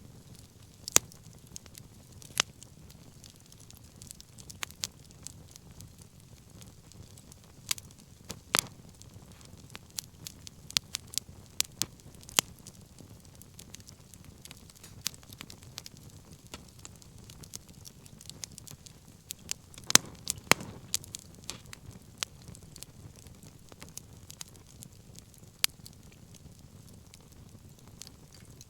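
Wood fire burning with a low steady rush of flame and irregular sharp crackles and pops, a cluster of louder pops about two thirds of the way in.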